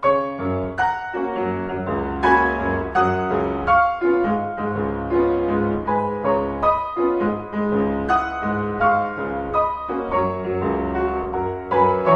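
Background solo piano music: a lively classical-style piece, chords and melody struck over a steady bass line.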